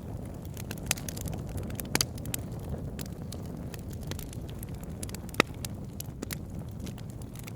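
Campfire crackling, with irregular sharp pops throughout, one louder pop about five and a half seconds in, over a steady low rumble.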